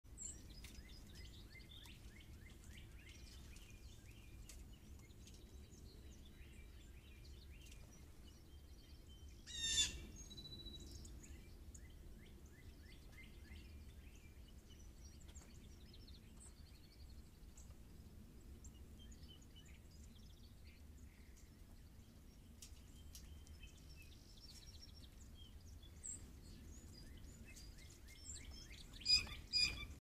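Wild birds chirping and calling. There is one loud harsh call about ten seconds in and a few more loud calls near the end, over a steady low rumble.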